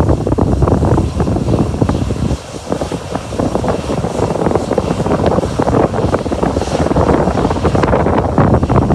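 Strong typhoon wind buffeting the microphone in heavy gusts, easing briefly about two and a half seconds in before picking up again.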